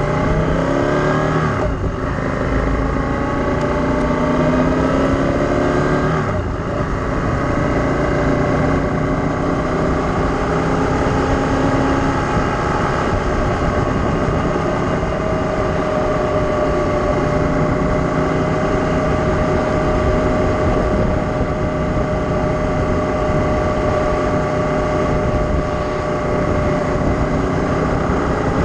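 A motor vehicle engine running under way, its pitch climbing over the first two seconds. There are brief breaks about two and six seconds in, like gear changes, and then a steady pitch.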